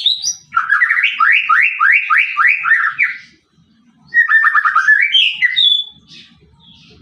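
White-rumped shama (murai batu) singing: a run of quick rising notes at about four a second, then after a short pause a faster run of rising notes that ends in a higher whistle.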